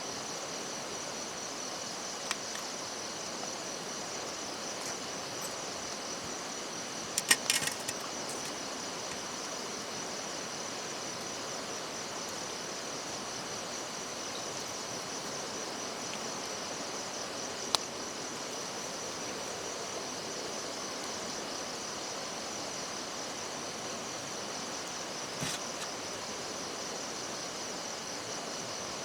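Steady chorus of insects chirring in a high, even, finely pulsing drone. A few sharp clicks and knocks break through, the loudest a quick cluster about seven seconds in.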